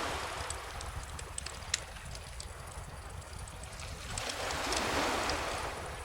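Bonfire crackling with scattered small pops over calm ocean waves. A wave washes in and swells about four seconds in, then eases near the end.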